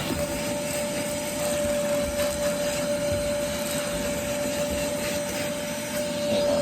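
Vacuum cleaner running steadily with a constant motor whine, sucking debris out of a car's carpet.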